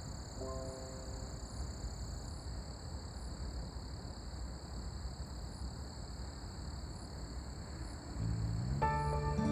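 Steady low outdoor rumble under faint, steady high-pitched tones, with a few short soft notes about half a second in. Calm instrumental music fades in near the end.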